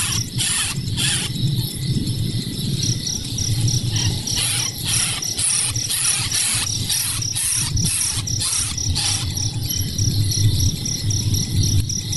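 Crickets chirping: a high pulsing trill with a run of short raspy chirps, about two a second, over a low rumble.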